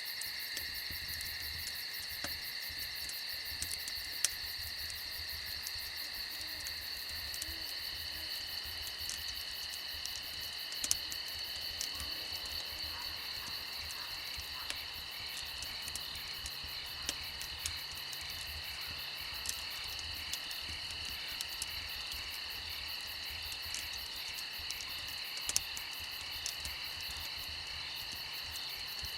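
Steady chorus of crickets, several high trills running together, with scattered sharp pops and crackles from a campfire.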